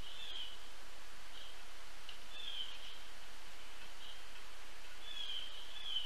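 Short, high bird calls, several sliding down in pitch, repeating every second or two over a steady outdoor hiss.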